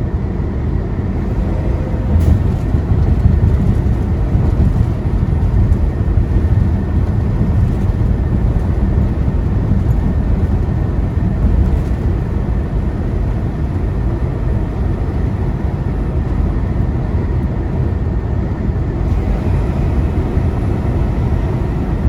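Semi truck cruising on the highway, heard from inside the cab: a steady low engine drone and tyre and road noise, with a couple of faint clicks.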